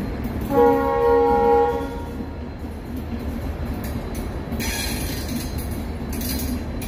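LHB passenger coaches of an Indian Railways express rolling past, with a steady low rumble of wheels on rail. About half a second in, a train horn sounds one blast of about a second and a half, the loudest sound here.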